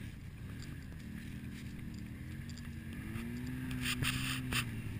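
Small trial motorcycle engine running at low revs, its pitch rising as it is revved a little about three seconds in. A brief scraping burst comes about four seconds in.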